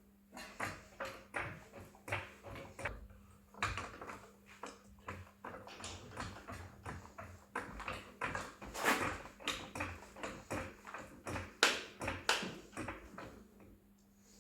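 Irregular short metallic taps, clicks and knocks from work on lifting gear while a tractor is raised, several a second at times, with a steady low hum behind them.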